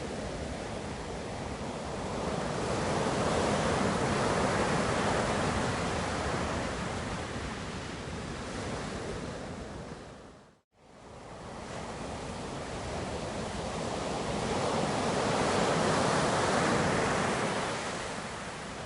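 Ocean surf washing in, swelling twice about twelve seconds apart. A little past halfway it fades briefly to silence and fades back in.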